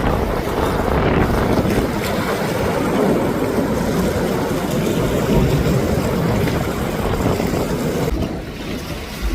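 Jet aircraft engine noise: a steady, loud rumble without a clear pitch, mixed with wind buffeting the microphone.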